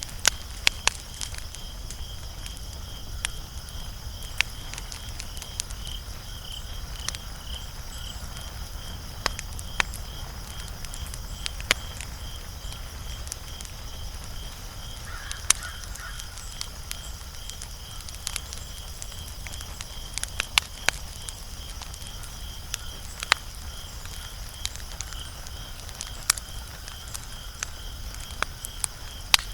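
Wood fire crackling, with irregular sharp pops over a low steady rumble. A steady, high, rapidly pulsing insect trill runs behind it.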